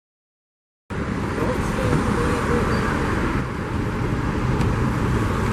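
Dead silence for about the first second, then street sound cuts in abruptly: steady road traffic noise with a heavy low rumble and faint voices.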